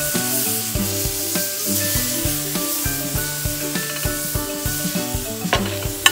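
Ground-beef burger balls sizzling on a hot gas griddle's flat-top, under background music with a steady beat. There are a couple of brief sharp knocks near the end.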